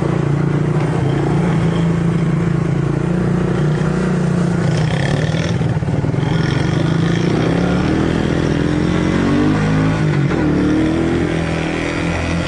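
Small off-road engines running at a steady pace, their pitch falling and then rising again between about 8 and 11 seconds as the throttle changes.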